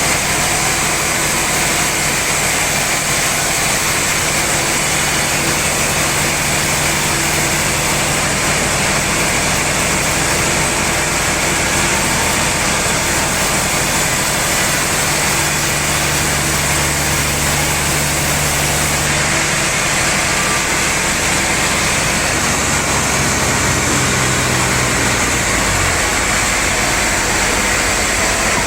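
Sawmill machinery running steadily: a loud, even hiss with a motor hum beneath it, the hum changing pitch a few times in the second half.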